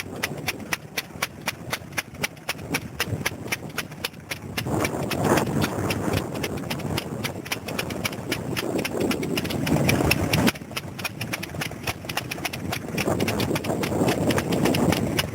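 Vintage stationary engine running with an even, rapid beat of about five knocks a second, with voices growing louder over it from about five seconds in.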